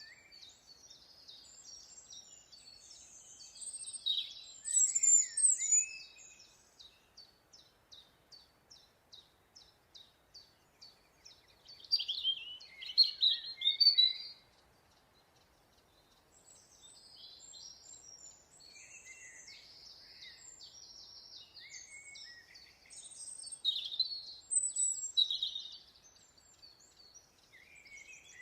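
Songbirds singing: loud bursts of varied, chattering high song about 4, 12 and 24 seconds in. Between the first two bursts comes a run of short, evenly repeated high notes, two or three a second.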